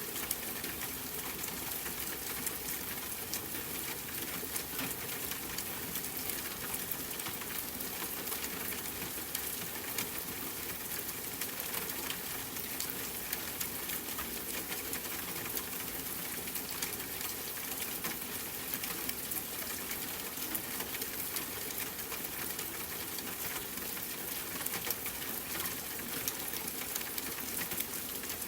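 Steady rain falling: an even hiss thick with small, crisp drop ticks.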